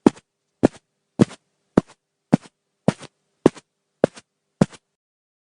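Footsteps walking at an even pace, about two steps a second, each a heel-then-toe double hit. Nine steps, then they stop near the end.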